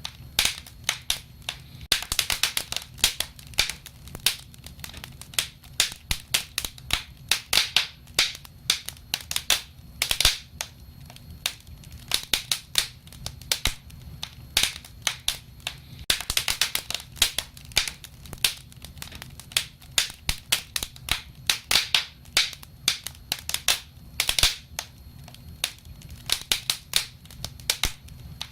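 Wood fire crackling: a constant run of irregular sharp pops and snaps, thickening into denser clusters every few seconds, over a steady low rumble.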